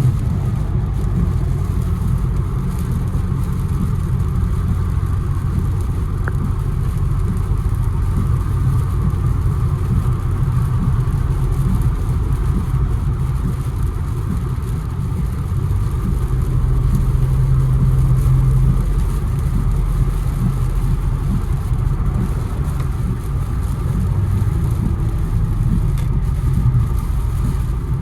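Infiniti Q60 driving, heard from inside the car: a steady low engine drone with road noise, getting somewhat louder for a few seconds past the middle.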